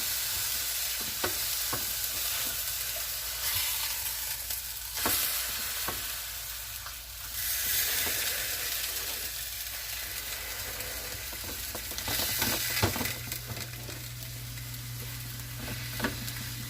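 Beef chuck roast searing in a very hot pan: a steady sizzle, with a few light knocks against the pan and a low steady hum that grows louder near the end.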